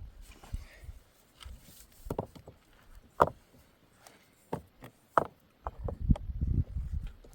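Irregular sharp knocks and thuds, a second or so apart, growing busier near the end.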